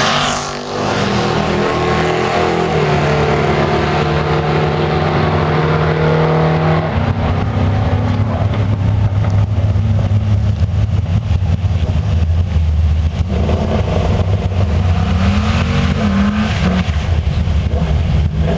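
Chevrolet Camaro engines at a drag strip: for about the first seven seconds a car runs at high revs and the sound dies away, then a deep steady idle rumble from cars in the lanes, with an engine revving up and down between about thirteen and seventeen seconds, in the run-up to a burnout.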